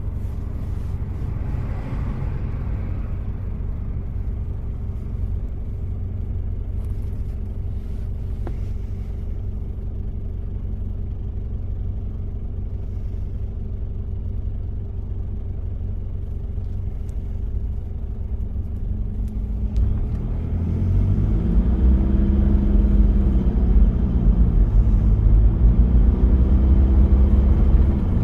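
1993 Toyota Prado's diesel engine running under way with a steady low drone. About twenty seconds in it grows louder, its pitch rising and dropping twice as it accelerates through the gears.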